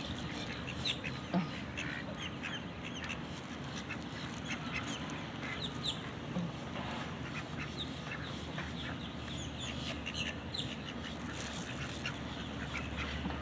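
A flock of ducks and other birds calling, a steady stream of short quacks and chirps over a low background hum.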